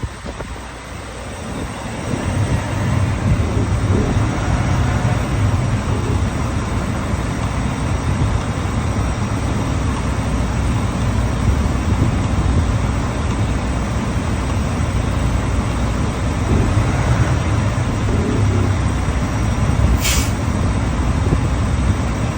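Diesel engine of a 2016 International ProStar+ truck tractor running steadily, building up over the first two seconds and then holding. A brief hiss cuts in about twenty seconds in.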